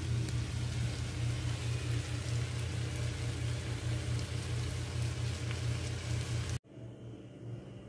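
Bitter gourd and egg omelette sizzling in a frying pan, a steady hiss with faint crackles over a low hum. The sound cuts off abruptly near the end, leaving something much quieter.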